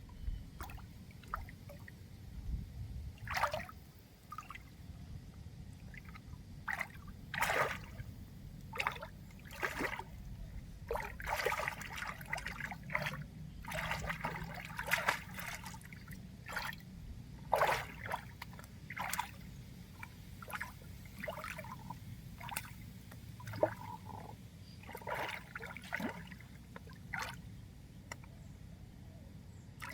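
Water splashing and trickling in short, irregular bursts, several a second at times.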